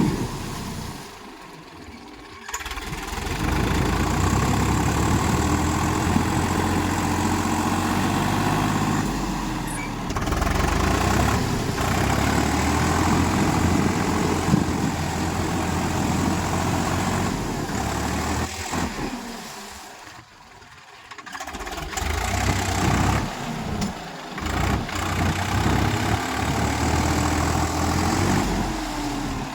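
Swaraj 744 XT tractor's diesel engine running steadily, fading down twice, about two seconds in and again around twenty seconds in, before coming back up.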